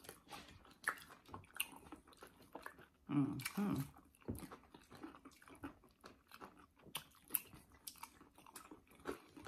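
Someone chewing and biting into crispy fried chicken: a run of small crunches, mouth clicks and smacks, with a brief bit of voice about three seconds in.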